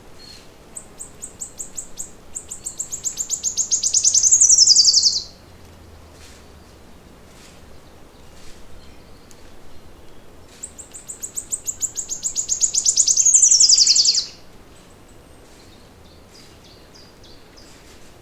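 A songbird singing twice. Each song is a rapid run of high notes that speeds up and grows louder for about four seconds, then ends in a falling slur. Faint chirps from other birds come between the songs.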